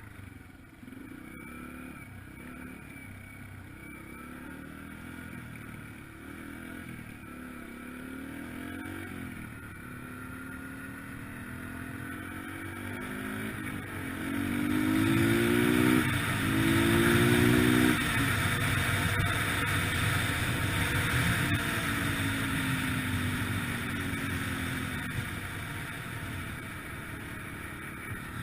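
Yamaha TT-R125LE dirt bike's single-cylinder four-stroke engine running as the bike is ridden, its pitch rising and falling with throttle and gear changes. About halfway through it accelerates, climbing in pitch and getting loudest, with a rushing hiss, then eases off.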